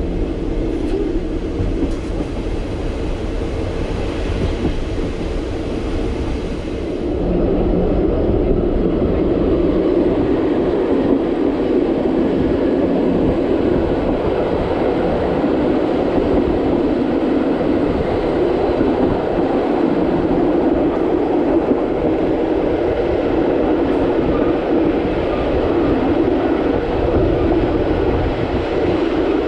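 Le Petit Train Jaune, a metre-gauge electric train, running along the line: a steady rumble of wheels on rail, stepping up louder about seven seconds in and staying even after.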